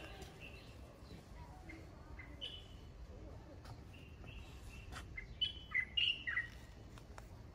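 Small birds chirping in short, high calls, with a louder run of several quick chirps about five and a half to six and a half seconds in.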